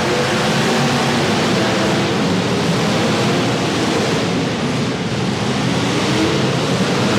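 Several demolition derby cars' engines running together, a loud, steady blended racket.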